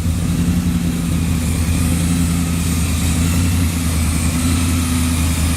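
Car engine idling steadily close by, a deep, even rumble.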